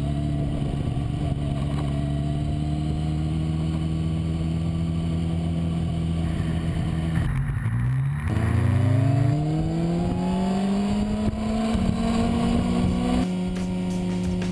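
Kawasaki ZX-10R's inline-four engine running at steady high revs. About seven seconds in, the revs drop sharply, then climb in a long rising sweep as the bike accelerates.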